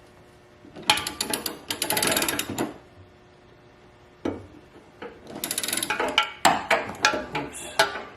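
Ratchet wrench with a 13 mm socket on an extension clicking in two quick runs as an exhaust bolt is worked loose, with a single knock between them.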